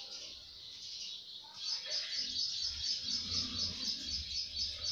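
Small birds chirping in quick repeated series. The chirping thins out shortly after the start and comes back strongly after about a second and a half.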